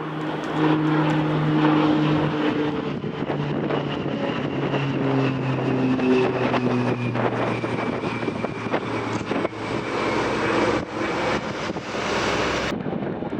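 Jet airliner's engines passing, a steady rush of noise with a high whine and lower tones slowly falling in pitch. The upper hiss cuts off suddenly near the end.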